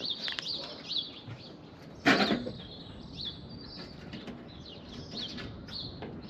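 Small birds chirping in quick, repeated high calls, with one short, loud noise about two seconds in.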